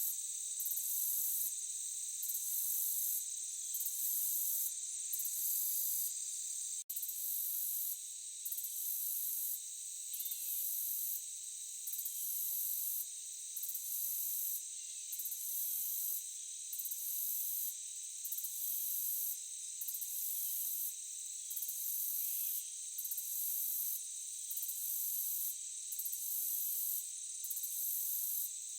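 Crickets and other insects trilling in a forest chorus: a steady high-pitched drone with an upper layer that pulses on and off a little more than once a second. It cuts out for an instant about seven seconds in.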